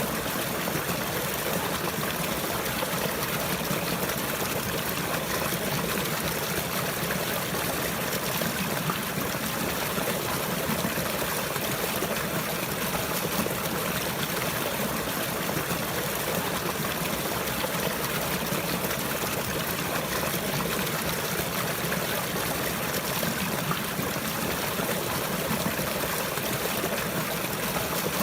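Running water flowing and trickling steadily, with an even, unchanging rush.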